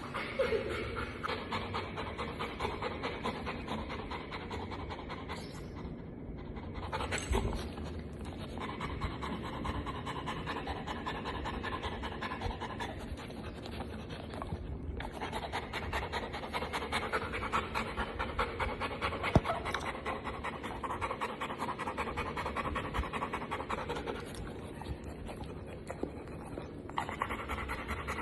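Golden retriever panting in a fast, steady rhythm, with a few short breaks.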